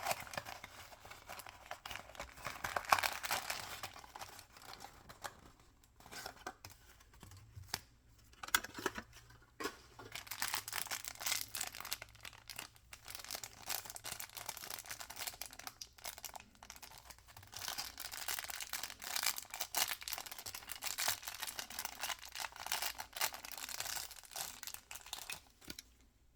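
Toy packaging being torn open and crinkled by hand. It comes in stretches of dense crackling with short pauses between them.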